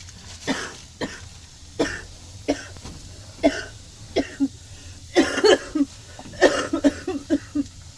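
A woman coughing repeatedly, a dozen or so short coughs, single at first and then in quick runs near the middle and toward the end: a severe cough from a cold.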